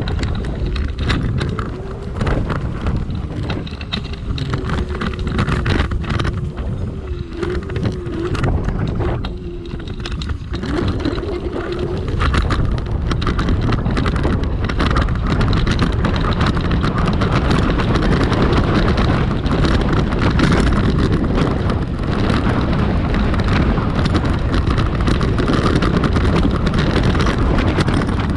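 Dual-motor electric scooter ridden off-road: a motor whine that wavers in pitch, over wind buffeting the microphone and rumbling tyre noise. About ten seconds in the whine drops away, and the wind and rumble grow louder and steady.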